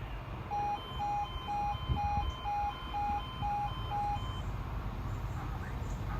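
Level crossing audible warning alarm sounding two alternating tones, about two pulses a second, which cut off about four seconds in; this crossing's alarms are taken to be faulty. A steady low rumble runs underneath.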